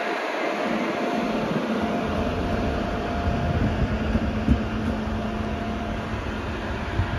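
Train of LHB parcel vans rolling past behind an electric locomotive: steady wheel-on-rail rumble that grows deeper about two seconds in, with a faint steady whine and a few louder thumps.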